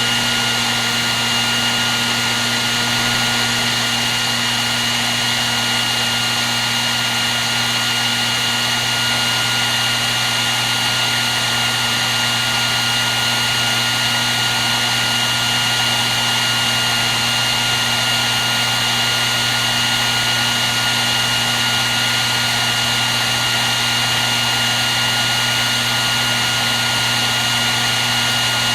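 Hair dryer running steadily on one setting: a constant airy rush of blown air with a steady high whine from the motor and fan over a low hum.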